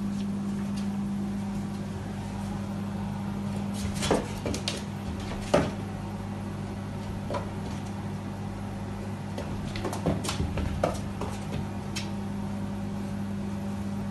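A steady low electrical hum, like a running appliance, with a few scattered sharp clicks and knocks; the loudest knocks come about four and five and a half seconds in.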